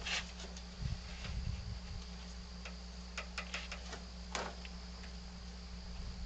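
Scattered light clicks and taps of hand work on metal fittings, most of them bunched about three to four and a half seconds in, over a steady low hum.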